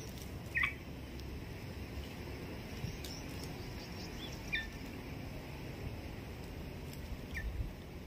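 Red-vented bulbuls at a ground feed, giving three short, high chirps spread across several seconds over a steady low rumble.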